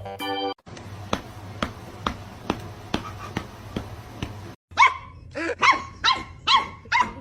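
A dog barking in a quick series of short, arching barks, about two a second, starting about two-thirds of the way in. Before that comes a steady run of sharp ticks about two a second over a faint hiss, and at the very start the tail of some organ music.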